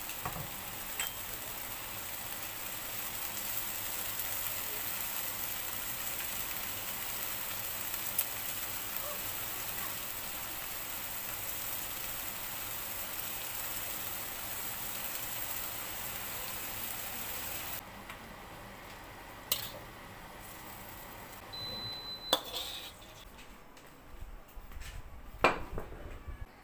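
White gourd and carrot strips sizzling in a hot wok, a steady hiss that stops suddenly about eighteen seconds in. It is followed by a few sharp knocks and clinks of dishes.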